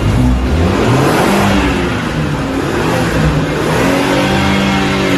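Car engine revving, its pitch climbing twice, shortly after the start and again in the second half.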